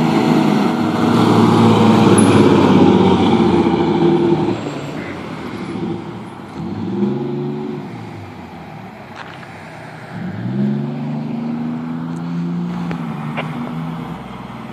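Fire apparatus's diesel engine running loud at first, then revving up twice, each time rising in pitch and levelling off as the truck accelerates.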